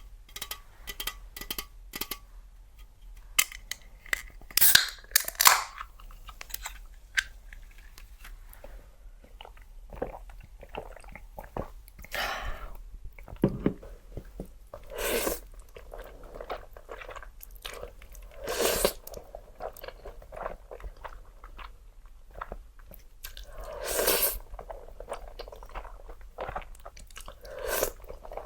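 Close-miked eating: crunchy bites and chewing, with a loud burst every three to four seconds and quieter chewing between.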